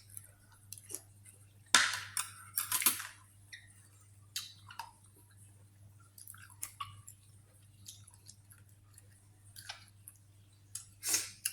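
Close-up eating sounds: a person chewing and smacking mouthfuls of spicy seafood papaya salad with rice noodles, shrimp and squid, in irregular wet clicks, with a louder cluster about two to three seconds in and again near the end.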